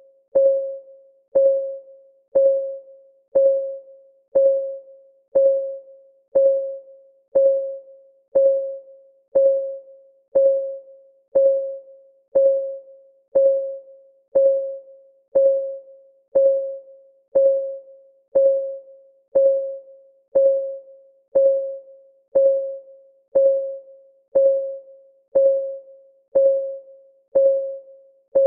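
Clock ticking sound effect of a countdown timer, one even tick a second. Each tick is a short click with a brief ringing tone.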